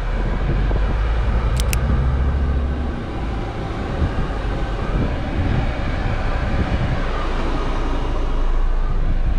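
Scania truck running on the road, heard from inside the cab: a steady low engine rumble with road noise, and two short clicks about a second and a half in.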